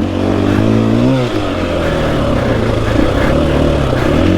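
Dirt bike engine revving up under throttle, then falling off sharply about a second in and running on at lower, uneven revs.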